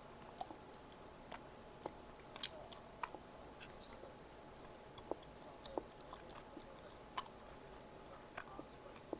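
A person chewing food close to the microphone, with irregular small mouth clicks and crunches, one sharper click a little past seven seconds in.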